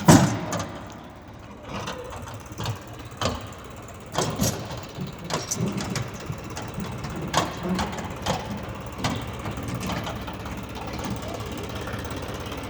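Tractor engine running low and steady, with scattered knocks and clanks over it; the loudest knock comes right at the start.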